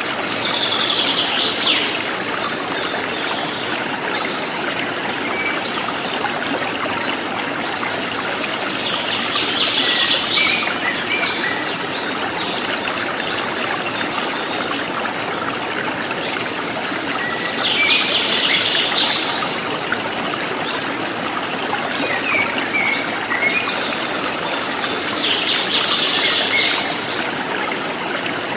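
Steady trickling of a forest stream, with a wild bird calling four times, each a brief cluster of high notes, roughly every eight seconds.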